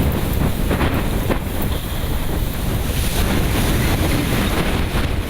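Strong wind buffeting the microphone: a loud, continuous low rumble and rush with gusts.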